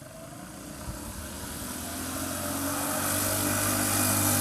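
Vintage mini bike's small engine running hard at a steady pitch during a drag run, growing steadily louder as it comes closer.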